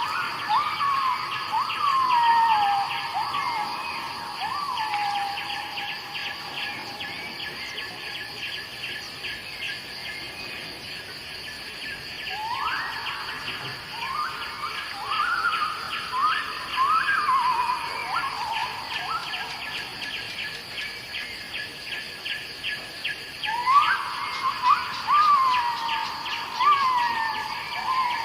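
Tropical forest dawn chorus: a bird's whistled song phrase, a rising note followed by a run of falling slurred notes, comes three times about eleven seconds apart over a steady, rapidly pulsing insect chorus.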